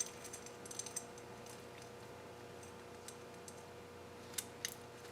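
Faint metallic clicks and clinks of timing-chain parts being handled on an engine, a cluster in the first second or so and two sharper clicks near the end, over a faint steady hum.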